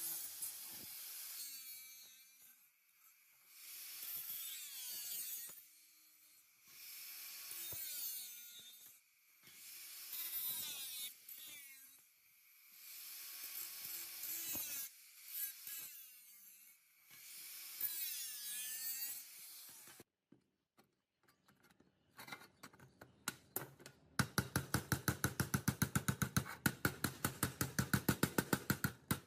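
A power tool running in repeated short bursts about every two seconds, each with a wavering whine over a hiss. It stops about two-thirds of the way through, and after a few clicks a fast, even ticking starts near the end.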